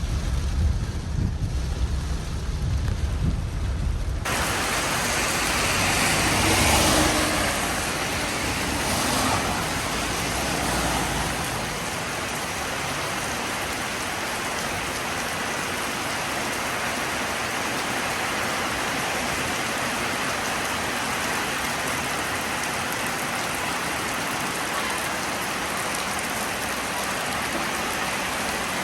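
Steady heavy rainfall, an even hiss. The first few seconds hold a deep rumble with little hiss; about four seconds in it switches abruptly to full rain, which swells briefly twice before settling.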